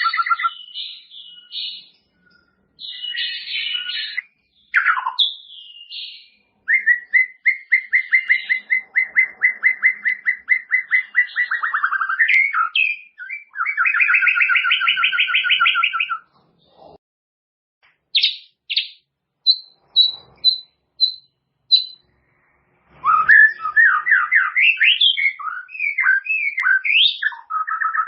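White-rumped shama (murai batu) singing a varied song phrase after phrase: fast runs of repeated notes and trills, then a string of short high notes, then quick rising whistled sweeps. The phrases are broken by short pauses.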